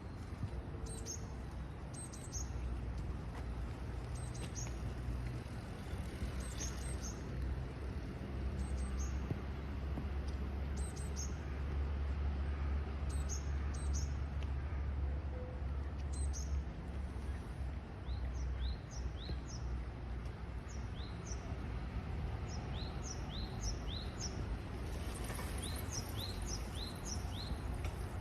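Small songbirds chirping in short, high calls; in the latter part, quick downward-sliding chirps repeat about twice a second. Underneath runs a steady low rumble of outdoor background noise.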